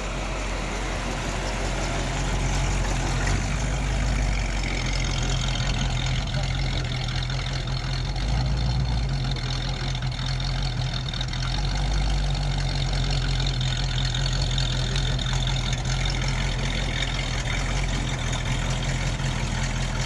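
Classic 1960s Ford Mustang convertible's engine running steadily at low speed as the car drives slowly across a car park.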